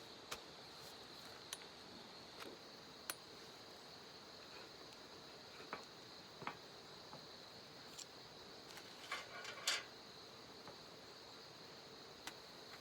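Quiet background hiss with a faint, steady high-pitched tone, broken by scattered light clicks and taps, with a short flurry of them about nine seconds in.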